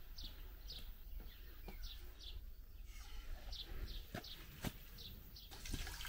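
A bird chirping faintly: short chirps, each falling in pitch, repeated every half second or so and stopping about five and a half seconds in, with one sharp click just before.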